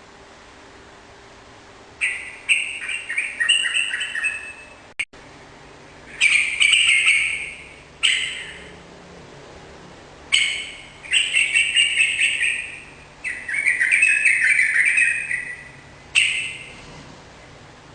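Yellow-vented bulbul (trucukan) singing: a run of bubbling, chattering phrases a second or two long, separated by short pauses.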